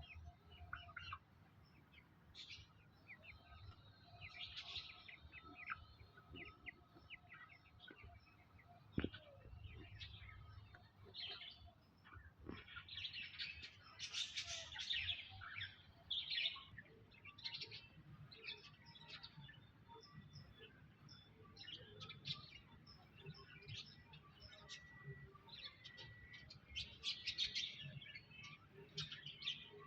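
Small birds chirping and tweeting in quick short high notes, busiest around the middle and again near the end, with a single sharp click about nine seconds in.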